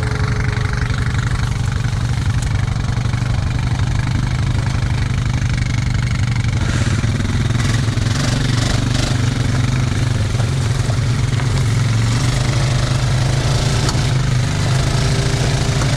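ATV engine idling steadily, a low, even rumble with no revving.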